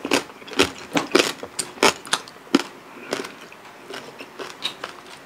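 Close-miked eating of crispy deep-fried pork knuckle (lechon pata): the crackling skin crunches and chews with sharp, irregular crunches about three times a second.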